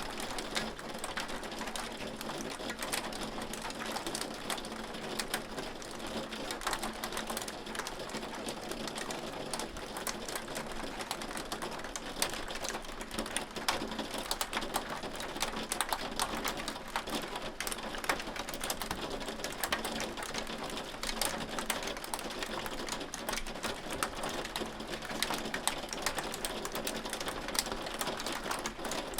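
Hail falling steadily, a dense rapid patter of many small hard clicks with no let-up.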